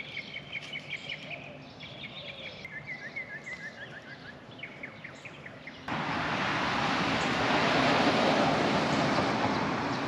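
Birds singing outdoors, with quick repeated chirping phrases that step down in pitch. About six seconds in, a loud, steady rushing noise starts abruptly and covers everything.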